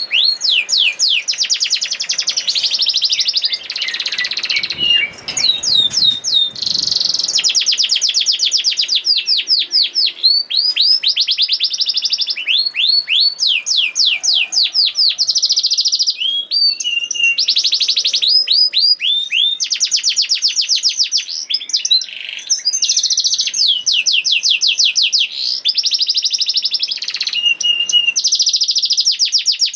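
Domestic canary singing a continuous song of fast rolling trills: quick runs of repeated down-slurred notes and buzzy rattles, broken by a few short pauses.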